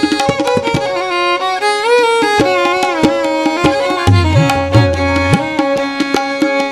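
Instrumental background music: a sliding, bowed-string-like melody over hand-drum strokes, with low drum notes bending upward in pitch about four seconds in.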